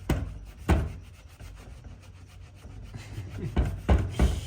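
Softened paint and stripper being rubbed off a wooden cabinet door in short, hard strokes: one at the start, one a little under a second in, and a quick run of three near the end.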